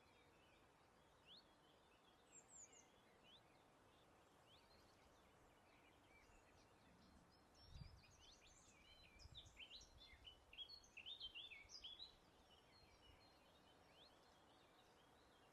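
Faint songbirds chirping and twittering in short, quick high notes, scattered at first and busiest around the middle, over a soft steady hiss. A brief low rumble comes about halfway through.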